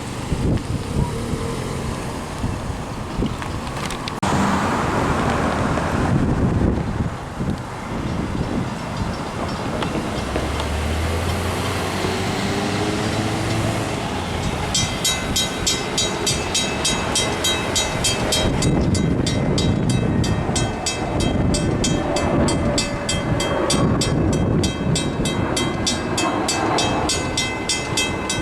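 Long Island Rail Road train running past a grade crossing, with a crossing warning bell ringing in a rapid, even repeat from about halfway through.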